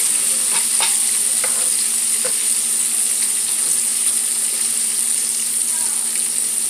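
Breaded catfish nuggets deep-frying in a skillet of hot oil: a steady sizzle. A few light clicks come in the first couple of seconds.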